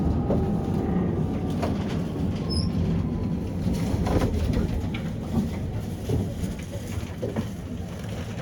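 Tram running on its rails, heard from inside the car: a steady low rumble with a faint electric motor whine sliding slowly down in pitch over the first few seconds, and scattered clicks and knocks from the wheels and track.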